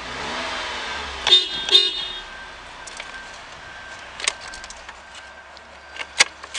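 Mitsubishi Outlander's 2.4-litre MIVEC four-cylinder engine settling from a light rev back to idle, its note falling, with two short beeps about a second in. Sharp clicks follow near the end as the engine is switched off.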